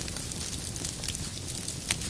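Wood fire crackling: a steady hiss with scattered small pops and one sharp, louder crack near the end.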